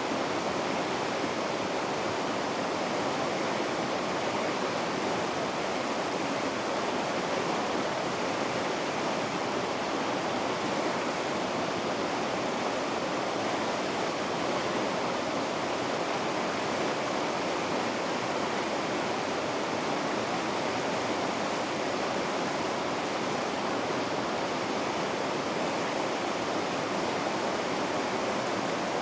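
River rapids rushing: a steady, even roar of fast water over rocks, with no change in level.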